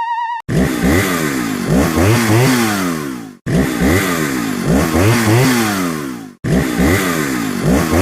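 A short engine-revving sound effect, with pitch rising and falling, played three times in a row with brief gaps between. It follows the last half-second of a wavering synth tone.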